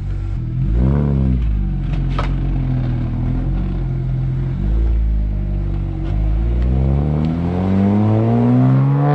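BMW 1M Coupe's twin-turbo straight-six driving off: a short rev blip about a second in, steady low running, then a long rising pull as it accelerates away near the end.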